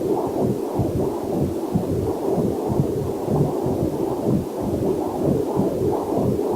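Whooshing, rapid and evenly pulsing heartbeat sound from a fetal Doppler heart monitor, with a faint waterfall hiss mixed underneath.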